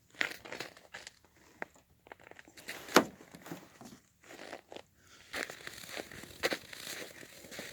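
Irregular rustling, crinkling and crunching from a phone being handled as its holder moves about, with one sharper knock about three seconds in.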